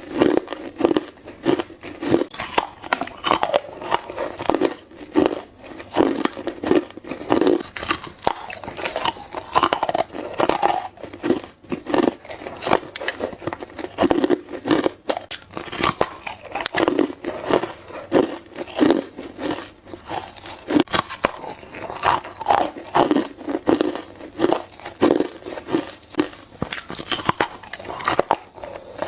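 Hard ice being bitten and crunched by a person's teeth: a continuous run of sharp, brittle crunches, bite after bite.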